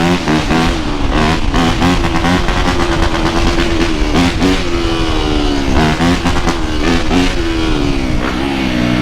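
Dirt bike engine running hard on the move, its pitch rising and falling again and again as it revs up and shifts, over a steady low rumble.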